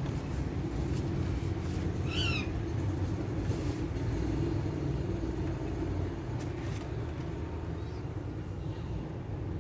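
Steady low background rumble, with one short, wavering call from an Alexandrine parakeet about two seconds in and a few faint clicks.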